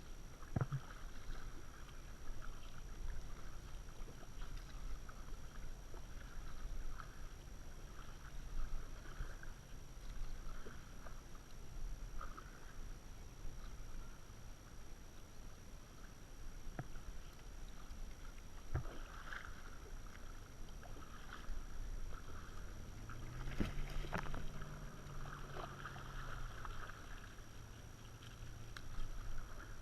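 Kayak paddling: water splashing and dripping irregularly as the paddle dips, over a low rumble, with a few sharp knocks. A low hum swells and fades about three quarters of the way through.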